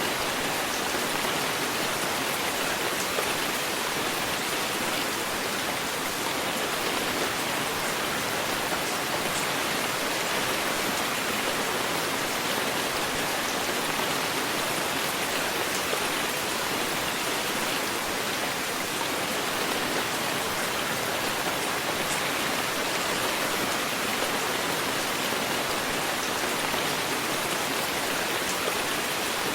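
Heavy rain falling steadily, an even hiss with the odd sharper drop, with no thunder.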